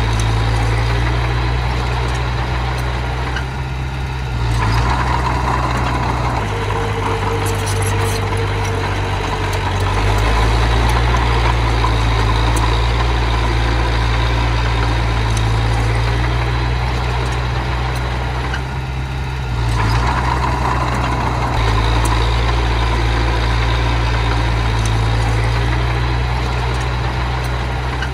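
Diesel engine of earthmoving machinery running steadily, its speed dropping and picking up again twice.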